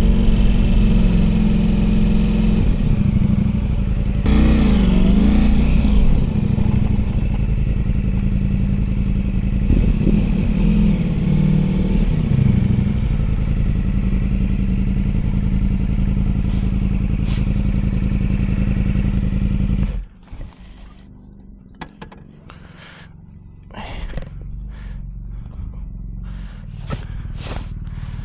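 Motorcycle engine running steadily while riding, its pitch wavering up and down briefly about four seconds in. About twenty seconds in the sound drops off sharply, leaving a much quieter stretch with scattered clicks and knocks before a lower, steady running sound comes back.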